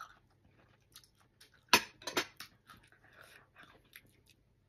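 Close-up chewing and mouth sounds of someone eating soft mango slices: scattered wet clicks and smacks, with two louder sharp ones a little under two seconds in.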